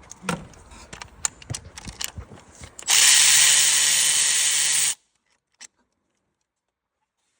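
Metal tools clink and knock, then about three seconds in a handheld power tool runs at a steady speed for about two seconds, working on the engine's water pump fasteners, and cuts off suddenly.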